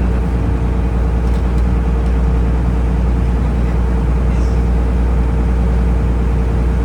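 Taxi boat's engine running steadily under way: a loud, even low drone with a steady hum.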